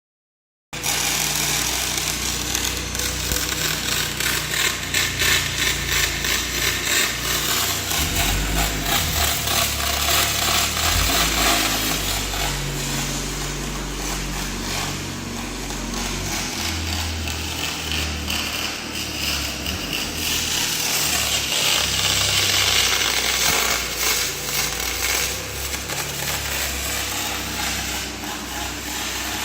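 MIG welding arc on aluminium, fed through a push-pull torch from an ESAB Mig 4004i welder: a steady crackling hiss that starts abruptly just under a second in and carries on without a break.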